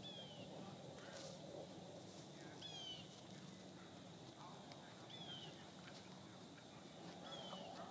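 A bird repeating a short, high, falling call four times, about every two and a half seconds, over faint outdoor background.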